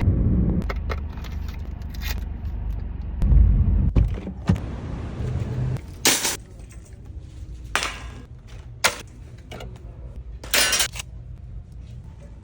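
A low rumble with heavy thumps over the first few seconds, then four short, sharp clattering knocks spread over the rest, like hard objects being handled and knocked together.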